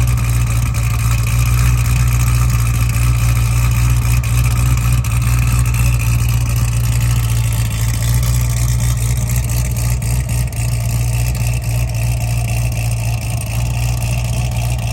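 C6 Corvette ZR1's supercharged LS9 V8, built with heads, cam and a 2650 supercharger, idling steadily while warming up from a cold start.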